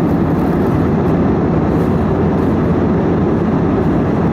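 Steady low rumble of an Airbus A320 in flight, its engine and airflow noise heard inside the passenger cabin.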